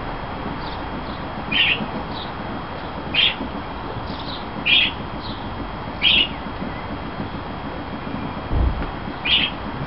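A bird giving short, sharp calls: five loud ones roughly a second and a half apart, with fainter calls between, over a steady background hiss. A brief low thump about eight and a half seconds in.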